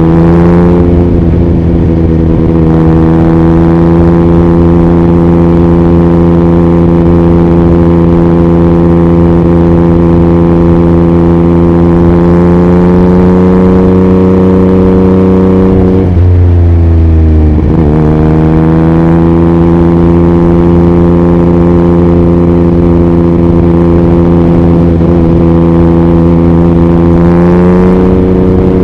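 2021 Yamaha MT-09's inline three-cylinder engine through an Akrapovic racing exhaust, running at steady highway revs with wind buffeting the microphone. About halfway through, the engine note drops sharply and climbs back, and it rises a little near the end.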